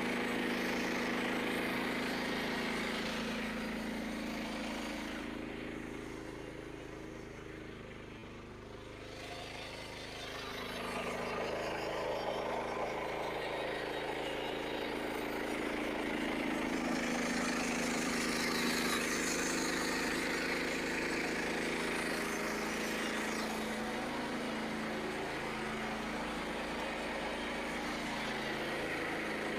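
Frontier OS27 portable band sawmill running, its small gas engine holding a steady note while the band blade cuts through a knotty white pine log. The cutting noise and overall level drop for a few seconds about a fifth of the way in, then come back.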